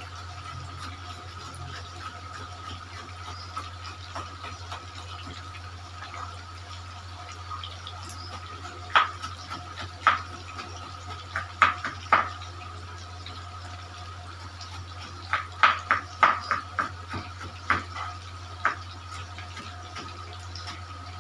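A kitchen knife striking a cutting board while slicing a bell pepper (capsicum), in two bursts of quick chops about nine and fifteen seconds in. Under it runs a steady hiss, typical of chicken frying in hot oil.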